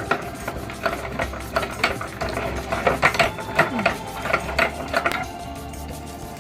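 Meat grinder working polymer clay through its mechanism: a dense run of irregular clicks and rattles that eases off about five seconds in.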